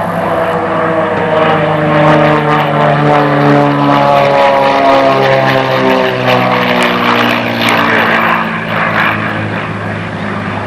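Twin-engine Aero Commander Shrike's piston engines and propellers droning loudly as the aircraft passes low. The engine note slides steadily down in pitch through the middle of the pass.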